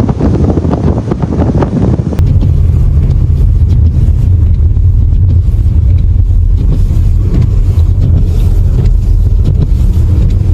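Wind buffeting the microphone over a low vehicle rumble, as in footage shot from a moving vehicle in a snowstorm. About two seconds in the sound switches abruptly to a steadier, deeper rumble.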